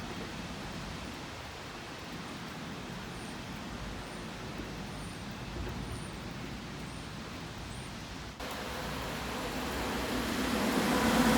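Steady background hiss, then a train approaching, growing steadily louder over the last few seconds.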